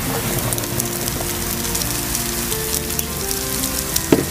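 Diced meat and carrots frying in oil in a non-stick pan: a steady sizzle with small crackles and pops as the meat goes into the hot oil. A short knock about four seconds in.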